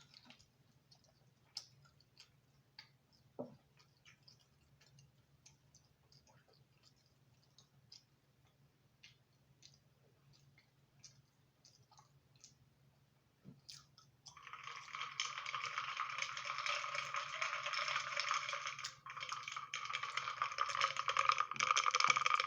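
Faint wet mouth clicks of someone chewing pizza, then about fourteen seconds in a loud, continuous drinking sound that breaks off once briefly and starts again, as a thick drink is drawn down.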